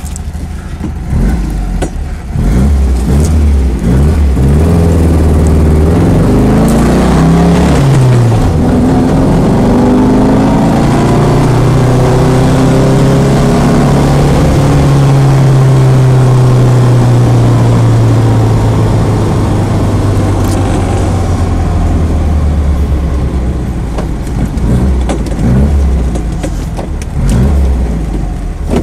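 1962 VW Type 34 Karmann Ghia's air-cooled flat-four engine, heard from inside the cabin while driving. The engine note climbs as the car accelerates, drops sharply at a gear change about eight seconds in, climbs again, then holds fairly steady before easing off near the end.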